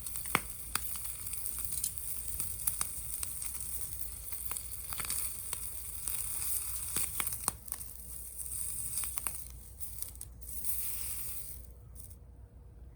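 Food sizzling in a pan over a wood gas stove fire: a steady high hiss with scattered sharp crackles and pops, which mostly dies away about twelve seconds in.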